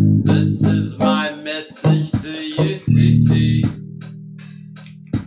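Music: strummed guitar over a bass line, closing on a chord that rings on and slowly fades, with a sharp click near the end.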